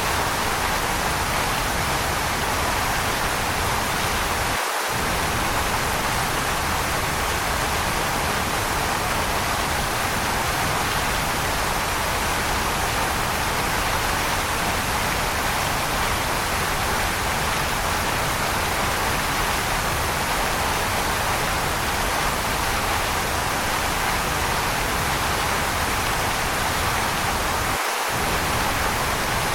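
Waterfall: a steady, even rush of falling water, like white noise, with no change in strength.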